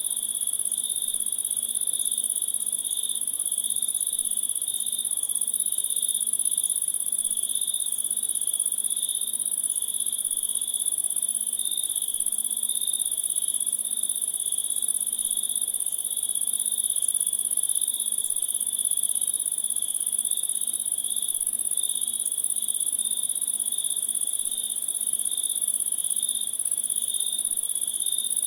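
A chorus of crickets trilling without a break: one very high steady trill over a lower, slightly pulsing one.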